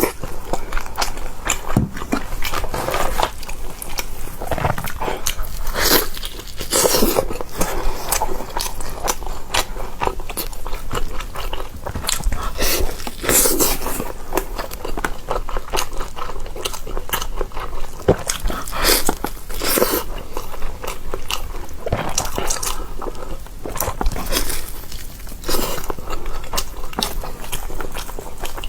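Close-miked eating: crunchy bites into crisp pan-fried stuffed pies and steady chewing, with louder crunches every few seconds.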